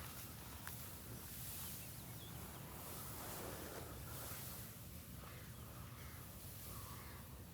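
Faint field ambience with a steady low rumble and a few faint, short bird chirps.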